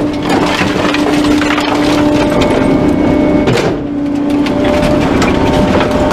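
Trash truck engine held at raised revs, a steady hum that dips briefly past the middle, with cracking and crunching over it as bulky items are crushed.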